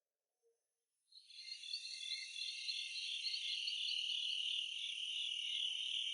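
A high-pitched, insect-like chirring that fades in about a second in and holds steady with a quick wavering pulse, then fades near the end.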